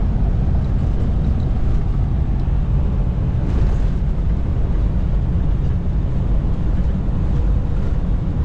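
Semi truck's diesel engine and road noise heard from inside the cab while driving: a steady low rumble.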